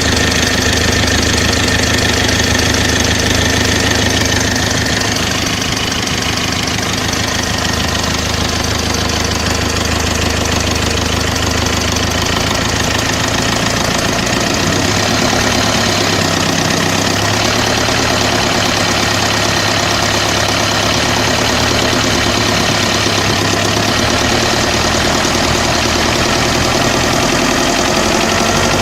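Mercedes-Benz OM601 2.3-litre four-cylinder diesel engine running steadily with a knock, the fault the owner is recording it for; its note shifts for a few seconds partway through.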